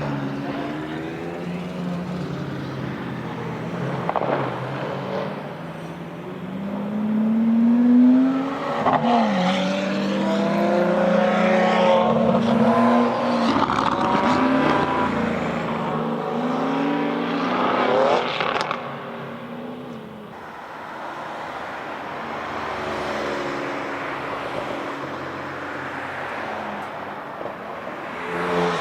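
Porsche 992 GT3 RS's naturally aspirated flat-six, on a loud aftermarket Brillsteel Edizioni Corsa exhaust, driven hard on track. Its pitch climbs and drops repeatedly through gear changes. It is loudest around eight seconds in and again about twelve to fourteen seconds in, and eases off after about eighteen seconds.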